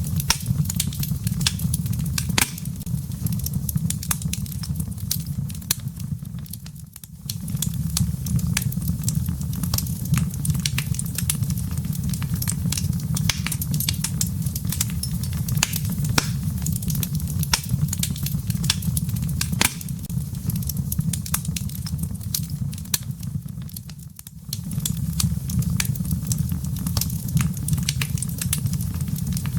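Wood fire burning in a fireplace: frequent sharp crackles and pops over a steady low roar of flames. The roar dips briefly twice.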